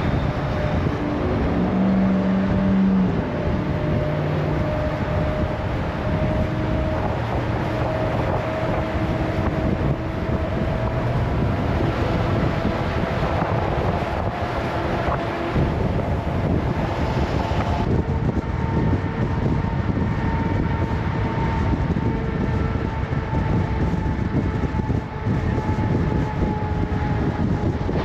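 Semi truck's diesel engine running under way with road noise, its note slowly rising, then changing about two-thirds of the way through.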